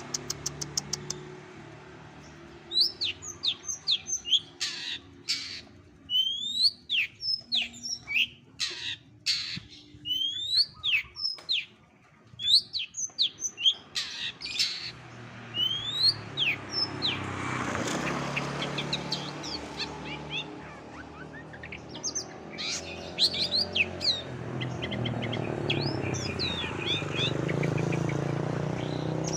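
Long-tailed shrike (cendet) singing a varied run of sharp chirps and quick rising and falling whistles, mimicking other birds' calls. Underneath runs a low steady rumble that grows louder in the second half.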